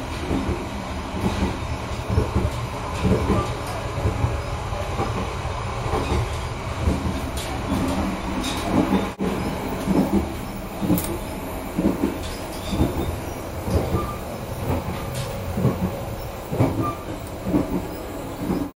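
Running noise of a moving passenger train heard from inside a carriage: a steady low rumble with frequent irregular knocks and rattles.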